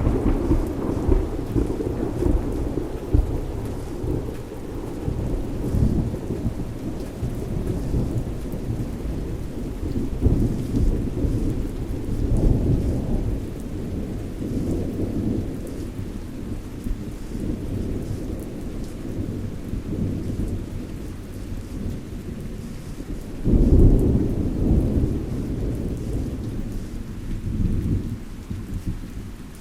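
Thunder rumbling low and rolling over steady rain. The rumble ebbs and swells, then a new, louder peal of thunder breaks in late on.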